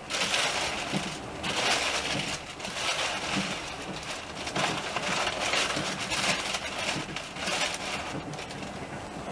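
Moving train, rushing and rattling loudly, with wheels knocking over the rail joints; the noise jumps up suddenly at the start.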